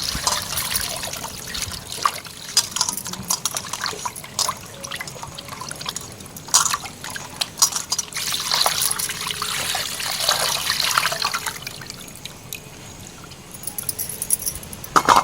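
Water splashing, pouring and dripping in irregular spurts, with many small knocks and clicks mixed in.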